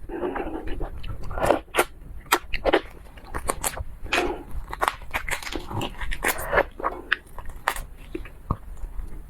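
Close-miked chewing and biting of seafood, with irregular crunches and wet mouth sounds.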